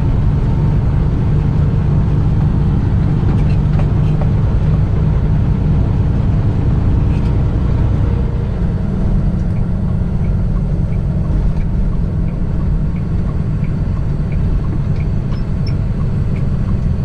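Semi-truck diesel engine and road noise heard inside the cab as a steady low drone, easing a little about halfway. From about halfway on, a turn signal clicks steadily, about one and a half clicks a second.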